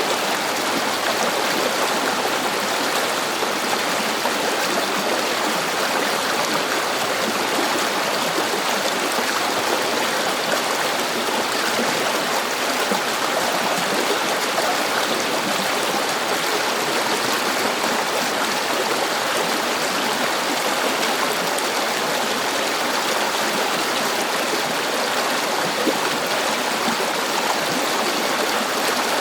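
A river flowing: steady rushing and babbling of water.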